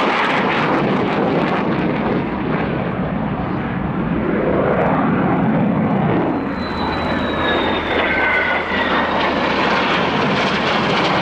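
Soloturk F-16 fighter jet flying a display pass: loud, steady jet engine noise that swells and fades as it moves. From about six and a half seconds in, a high whine rises above it and dips slightly in pitch.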